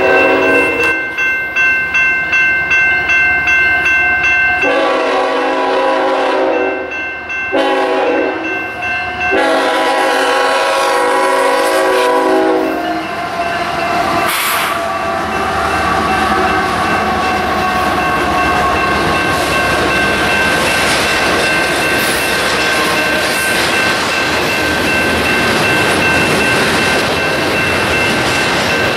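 Grade-crossing bells ringing about twice a second, then a Union Pacific diesel freight locomotive's air horn sounding several blasts, the last one long. From about 13 s on there is a steady rumble and clatter as the locomotives and double-stack container cars roll through, with the crossing bells still ringing.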